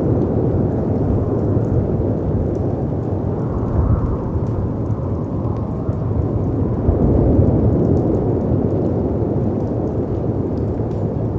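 Layered storm ambience: a low rumbling rush of wind and breaking sea waves that swells and eases, with faint crackles and pops from a fireplace on top.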